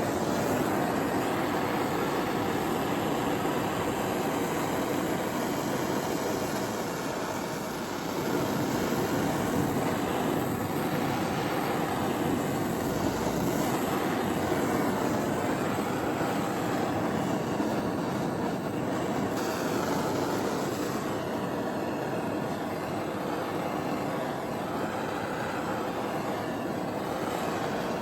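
Power tool running steadily on metal, a dense continuous grinding noise that starts abruptly and dips briefly about eight seconds in.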